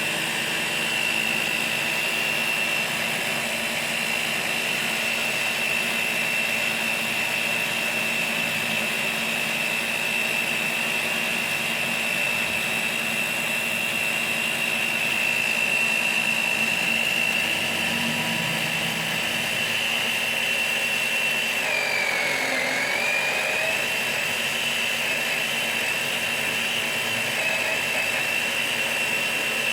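Car engine running steadily during an engine decarbonizing treatment, with a steady high whine over a hiss; the whine dips in pitch briefly about two-thirds of the way through, then comes back up.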